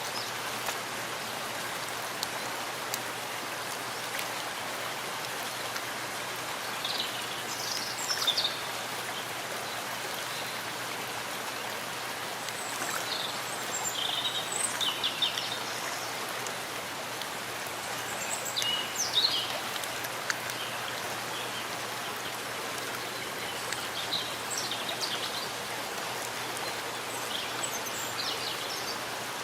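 Steady rain falling in a forest, an even hiss of drops. Groups of short, high chirps from birds come through it several times.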